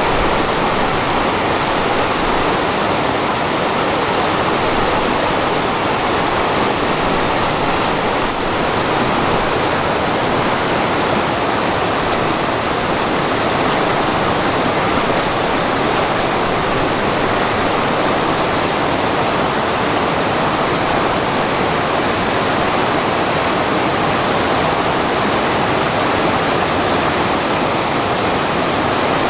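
Mountain stream water rushing over rocks in a steady, loud, unbroken flow.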